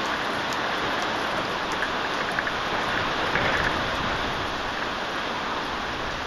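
Heavy rain falling in a steady downpour, a dense hiss with scattered drops and splashes pattering through it.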